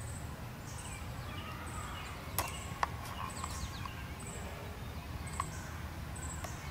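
Birds chirping: a faint, high, short call repeating about once a second among quick falling chirps, with two sharp clicks a little over two seconds in.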